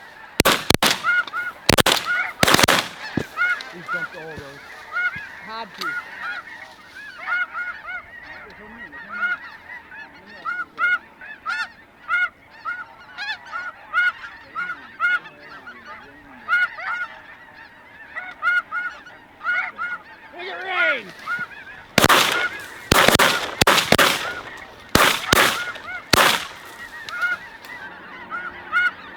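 A large flock of snow geese calling constantly with high, repeated honks. Loud sharp bangs cut through it, a few near the start and a rapid volley about three quarters of the way in: shotgun shots fired at the flock.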